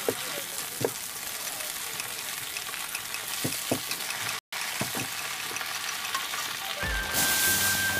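Food frying and sizzling in hot oil, a steady hiss with a few short knocks of kitchen utensils. Music comes in near the end.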